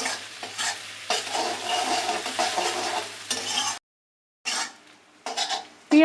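Sliced onions and garlic cloves sizzling in hot oil in a kadai, stirred with strokes that scrape the pan several times. The sound cuts out completely for a moment a little past halfway, then returns fainter.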